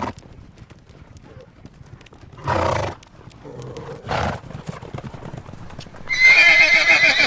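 Horse whinnying loudly with a wavering, high call that starts about six seconds in, after two shorter noisy sounds about two and a half and four seconds in. Light hoof clops tick away throughout.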